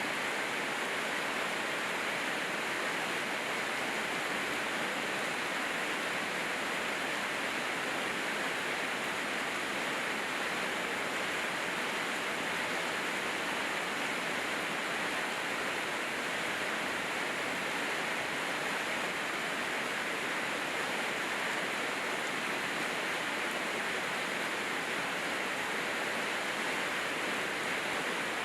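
Steady rainfall, an even unbroken hiss with no single drops or other events standing out.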